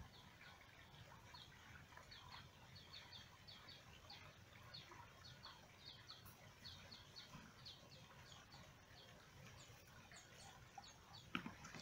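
Faint birds chirping: a steady run of short high chirps repeated several times a second, with a single sharp knock near the end.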